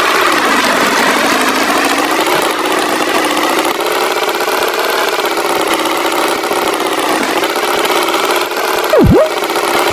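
Tractor engine running steadily, its pitch wavering slightly; about nine seconds in, a short, loud swooping tone dips and rises.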